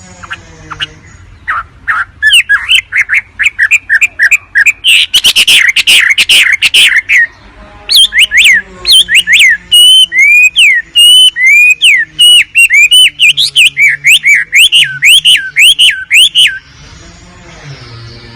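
Wambi bird song: a long run of loud, rapid chirps, a harsh chattering stretch in the middle, then repeated clear slurred whistles about three a second, stopping near the end. It is a recording of the kind played to lure or train birds.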